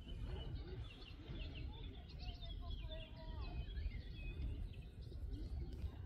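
Small birds chirping and calling in quick short notes, over a steady low outdoor rumble.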